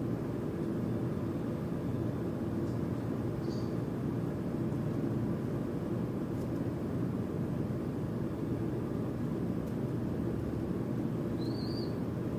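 Steady low rumbling hum throughout, with two brief, faint high bird chirps over it, one about three and a half seconds in and one near the end.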